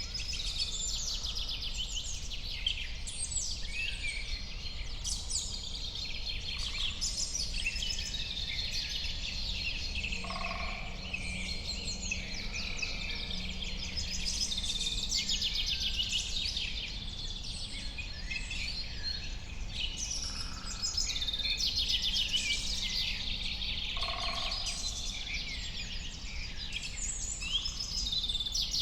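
Several songbirds singing and calling over one another in a continuous chorus of chirps and trills, with a steady low background rumble underneath.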